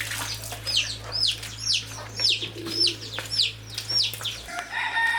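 A small bird singing a run of sharp, high chirps, each sliding down in pitch, about two to three a second. Near the end a rooster starts to crow.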